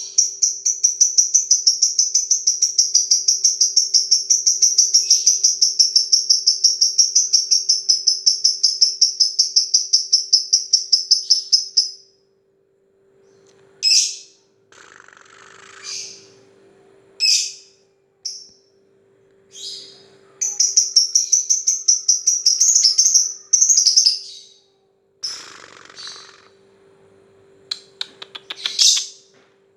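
Lovebird singing its long, rapid ticking 'ngetik' song for about twelve seconds, then giving short separate chirps, with a second burst of the ticking song about twenty seconds in and more short chirps near the end.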